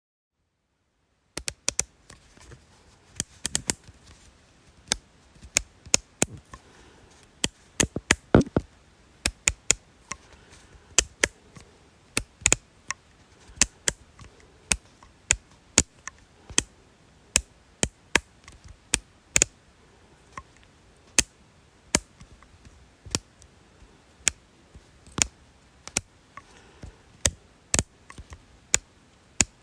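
A long run of sharp, dry clicks at an uneven pace, roughly two a second and sometimes in quick pairs, beginning about a second and a half in after a moment of dead silence.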